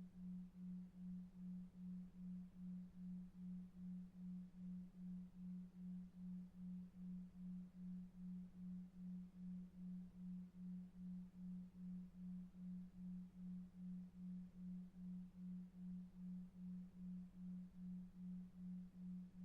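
A low pure tone pulsing steadily about two and a half times a second, a 2.5 Hz delta-wave sleep tone, over faint brown noise.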